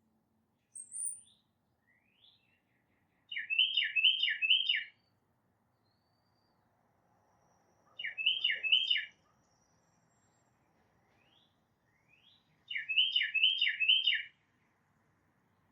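A songbird singing a short phrase of three or four quick, repeated notes, three times a few seconds apart, with faint thin rising calls in between.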